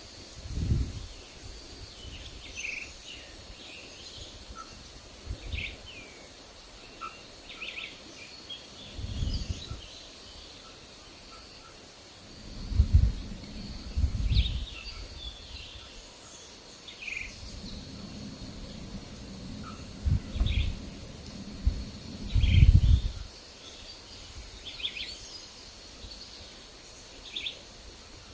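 Forest birds giving short, scattered chirps over a faint steady high-pitched whine. Wind buffets the microphone in gusts, heard as low rumbles about half a dozen times; these are the loudest sounds.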